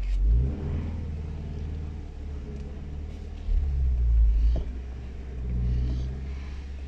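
Nissan X-Trail T30 engine heard from inside the cabin, running at low revs as the SUV creeps along, with a low rumble that gets louder twice: about three and a half seconds in and again near the end.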